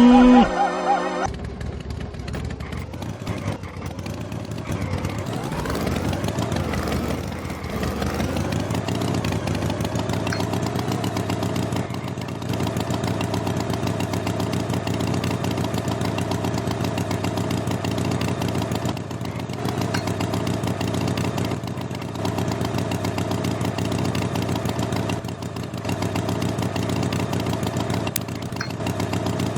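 An engine revving, its pitch rising and falling a few seconds in, then running steadily with brief dips every few seconds. A louder pitched sound cuts off about a second in.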